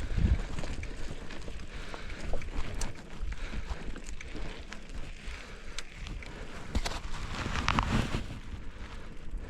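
Mountain bike rolling over a rough dirt trail: wind rumbling on the microphone, with scattered clicks and rattles, busier about three-quarters of the way through.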